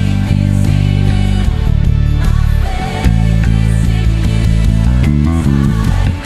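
Worship rock band music with a prominent electric bass guitar holding sustained low notes. A quick run of short bass notes comes about five seconds in.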